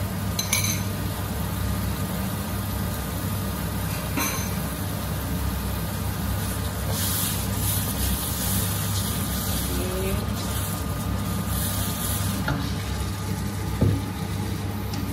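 Blended dried-chilli paste with onion and garlic sizzling as it is sautéed in hot oil until crisp, over a steady low hum, with a few sharp clicks.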